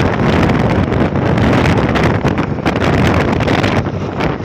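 Wind buffeting the microphone with the rumble of a moving vehicle, a loud rushing noise that surges unevenly.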